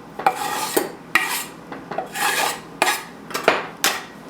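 A utensil scraping and clinking against a bowl in a run of short, uneven strokes, as the chicken salad is stirred and the vegetables are scraped in.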